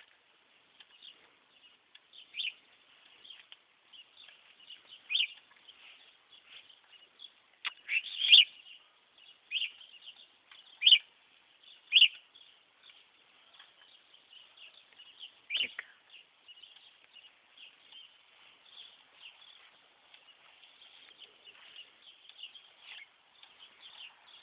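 Budgerigar chattering quietly and continuously, broken by a series of short, sharp, louder chirps, the loudest about eight seconds in.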